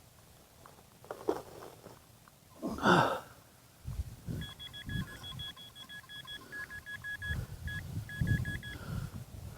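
A metal detector beeping in quick irregular runs of one steady, high pitch for about four seconds, sounding over a target in the ground. Before the beeps, about three seconds in, comes a single loud scraping swoosh, with low thuds under the beeping.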